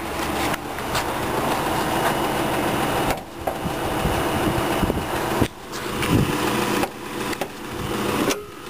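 2009 Dodge Journey's 3.5-litre V6 idling steadily with the hood open, with a few short knocks. The sound cuts out briefly several times.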